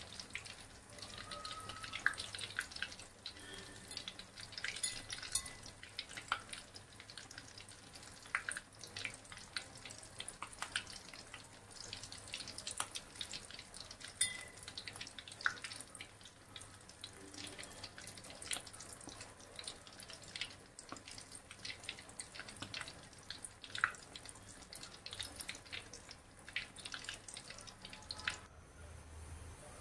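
Bread rolls deep-frying in hot oil: an irregular crackle of small pops and sizzling.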